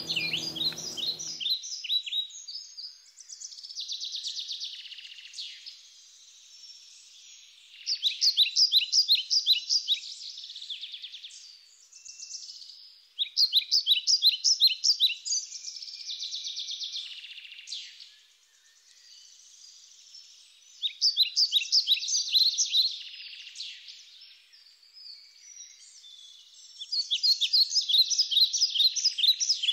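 A songbird singing a rapid, pulsed phrase of two to three seconds, repeated every six seconds or so, with softer high trills and calls in between.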